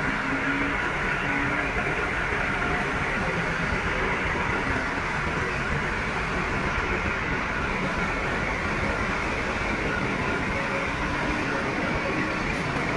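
Heavy construction machinery running steadily, a constant mechanical engine noise with no breaks.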